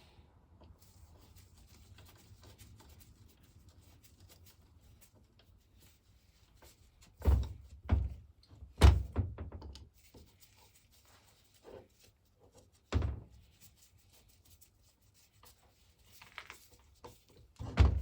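Quiet handling of water pump parts and tools on a workbench, broken by a few dull thunks: three close together about seven to nine seconds in, one near thirteen seconds, and another near the end.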